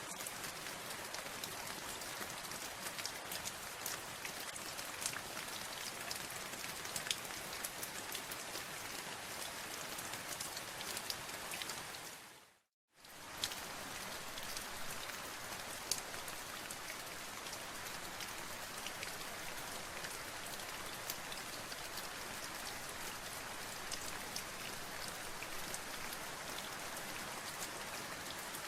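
Steady rain with many distinct drops ticking over an even hiss. About halfway through it fades out to silence for under a second, then fades back in.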